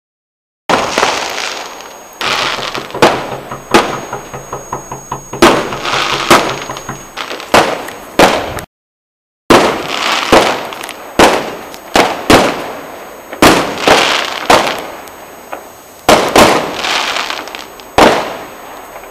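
Fireworks bursting overhead in a steady barrage: sharp bangs every second or so, each trailing off in a crackling hiss. The sound cuts out completely for a moment about nine seconds in.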